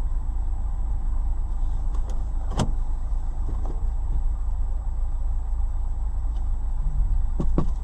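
Car driving, heard from inside as a steady low rumble of engine and road noise, with one sharp click about two and a half seconds in and a couple of quick clicks near the end.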